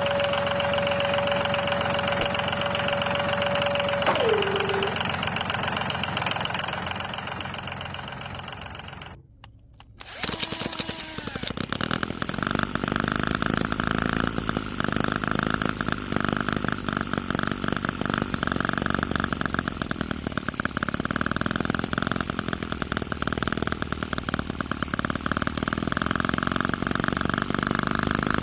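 H74 5cc two-cylinder four-stroke model gasoline engine running, with a steady whine that drops in pitch and stops about four seconds in. The sound fades away around nine seconds in, then after a short break the engine runs steadily again.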